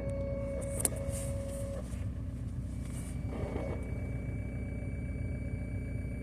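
Car running with a steady low rumble and a thin whine on top, the strange fuel-pump noise that the owner suspects comes from a failing fuel pump. The whine pitch changes partway through, and there is a single sharp click just under a second in.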